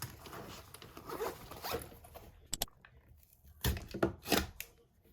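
A zipper being pulled: a rasping draw over the first couple of seconds, then a few short, sharp pulls near the end.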